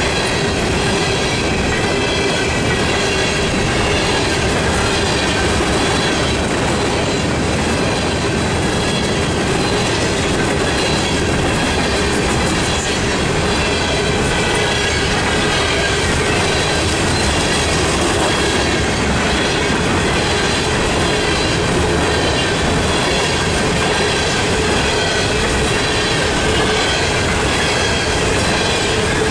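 Empty coal hopper cars of a long unit freight train rolling past at a grade crossing, a steady rumble and clatter of steel wheels on the rails, with a thin high squeal over it. The train is gathering speed.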